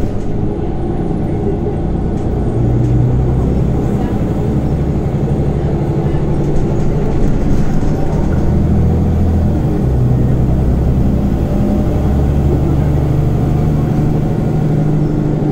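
Scania OmniCity city bus heard from inside, its diesel engine and ZF automatic drivetrain running under way. The engine note shifts to a new pitch several times, around three, eight, ten and thirteen seconds in.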